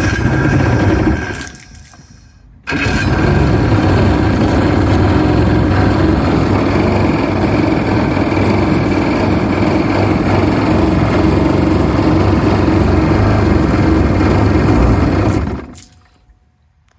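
Jet ski engine fuelled with its fuel on/off/reserve valve bypassed. The owner blames that valve for the starting trouble. The engine fires briefly and dies, catches again about three seconds in, runs steadily for about thirteen seconds, then cuts out suddenly near the end.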